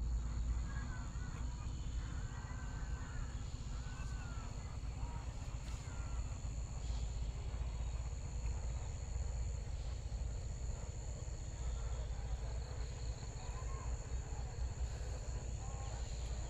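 Open-field ambience: a steady high-pitched insect drone with a constant low rumble beneath, and scattered faint short chirps.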